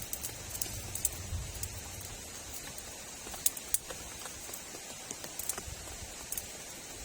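Steady rain hiss with scattered sharp ticks of drops hitting close by, a few of them louder.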